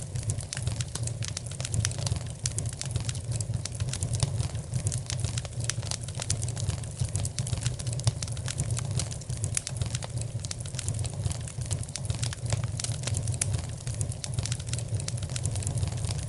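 Wood fire crackling in a fireplace: a steady run of sharp pops and snaps over a low, even rumble.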